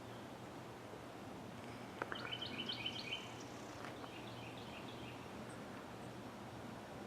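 Small birds chirping faintly in short quick runs of high notes, the main run about two seconds in, over a steady background hiss and low hum.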